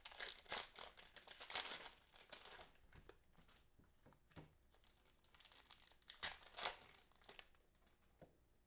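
Plastic cello-pack wrapper of trading cards crinkling and tearing as the pack is opened by hand, in two spells: the first two and a half seconds, then again around six to seven seconds.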